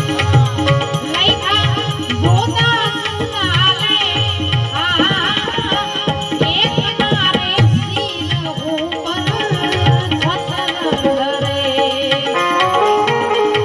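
Santvani bhajan music: tabla keeping a steady rhythm under sustained held tones, with a wavering, ornamented melody line over the top, busiest in the first half.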